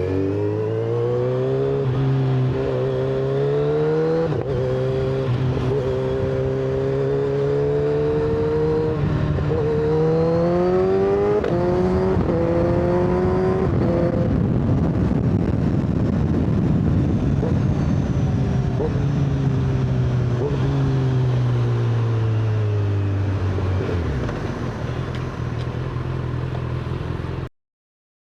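Inline-four superbike engine accelerating through the gears, its pitch climbing and dropping back at each upshift, with rushing wind noise at speed in the middle, then the pitch falling as the bike slows. The sound cuts off suddenly near the end.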